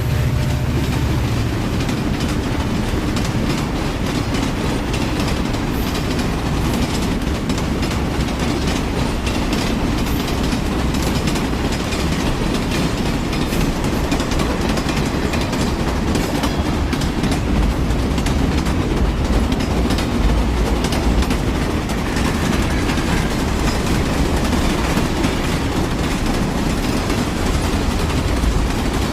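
A train running along the track: a steady rumble of the wheels and cars, with frequent clicks as the wheels pass over rail joints.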